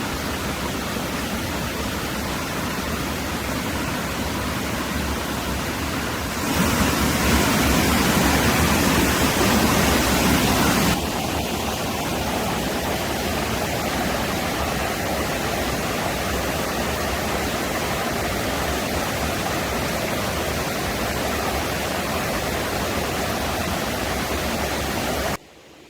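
Steady outdoor rushing noise, wind or running water, with a low rumble. It gets louder for a few seconds starting about a quarter of the way in, then drops back, and cuts off abruptly near the end.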